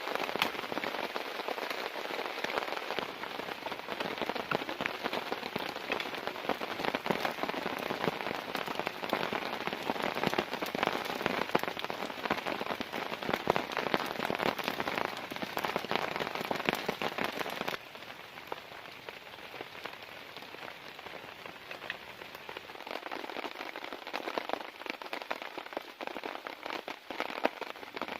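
Heavy rain falling on a tent, a dense patter of countless drops. About eighteen seconds in it drops suddenly to a lighter, quieter patter.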